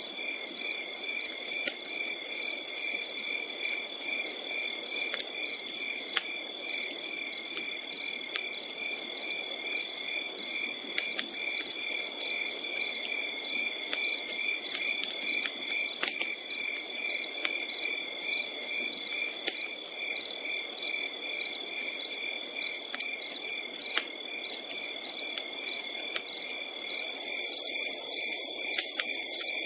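Crickets chirping in steady, even pulses over a continuous high trill, with a campfire crackling in irregular sharp pops and a soft hiss. Near the end, a louder high buzz joins for a couple of seconds.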